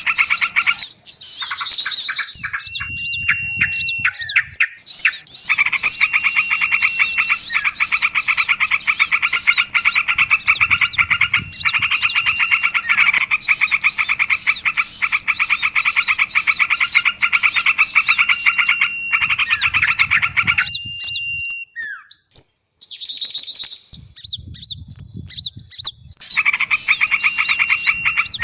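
Small songbirds chattering and chirping in a layered bird-lure mix: a dense, rapid chatter of calls, with quick rising and falling chirps above it and a few short held whistles. The chatter breaks off briefly a few times, longest for a few seconds near the end.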